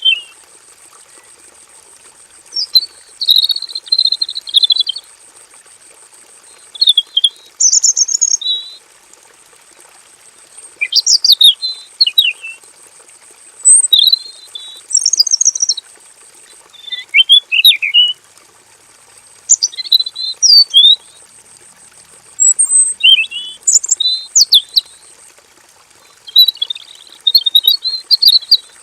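Male red-billed leiothrix (Pekin robin) singing: short, varied whistled phrases, one every second or two with brief pauses between. A faint steady high whine runs behind the song for long stretches.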